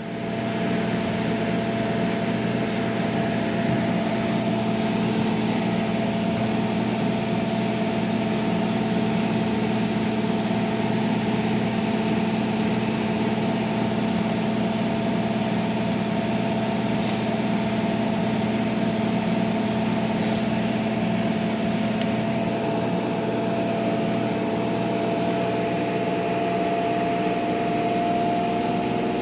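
Hotpoint Active Care washing machine on its spin cycle: the motor and drum run with a steady hum that builds up in the first second and then holds.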